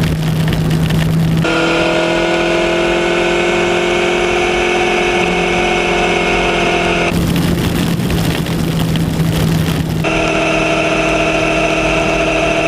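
Kawasaki Ninja 1000's inline-four engine running at a steady speed while riding, over wind and rain noise. The engine note changes abruptly about a second and a half in, again around seven seconds, and again near ten seconds.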